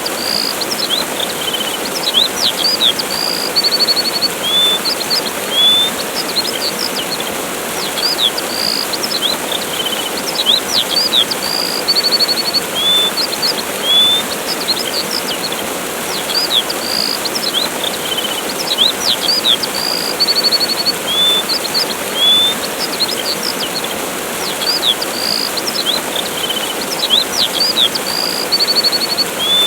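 Steady rushing of a waterfall with songbirds chirping over it: short quick chirps, brief trills and rising whistles, the same run of calls coming round again about every nine seconds.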